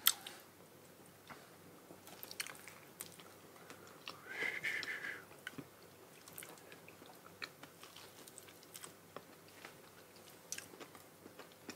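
Faint wet chewing and lip-smacking of people eating soft Monthong durian flesh, with scattered small mouth clicks. A brief louder sound stands out about four to five seconds in.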